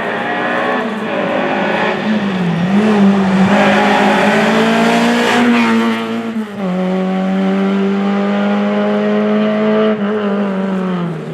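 Rally car engine running hard on a special stage. The note dips and picks up again, with clear drops in pitch at gear changes about two and a half and six and a half seconds in and again near the end. Engine and tyre noise are loudest in the middle.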